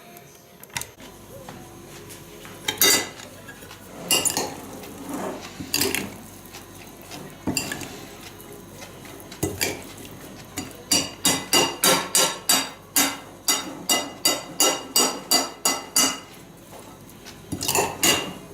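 Kitchen knife chopping vegetables on a cutting board. At first there are scattered single strokes, then a quick, even run of chops at about three a second, and a last few near the end.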